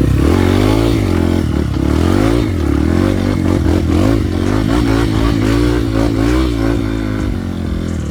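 Trail motorcycle engine running under changing throttle, its pitch rising and falling repeatedly, with frequent short knocks over it.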